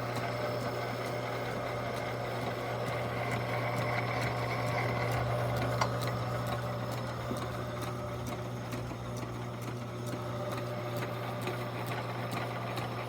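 Homemade lathe running on its electric motor: a steady hum with higher whirring tones, and a single sharp click about six seconds in.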